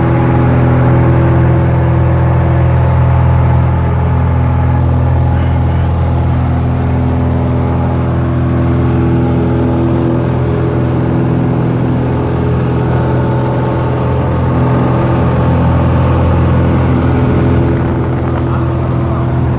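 Cessna 172's piston engine and propeller running at a steady cruise power, a constant loud drone with an unchanging pitch.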